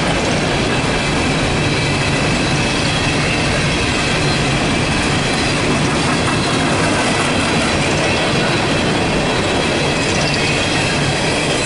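Empty steel coal hopper cars of a freight train rolling past close by: a steady, loud running of steel wheels on the rails, with a thin, steady high wheel squeal over it.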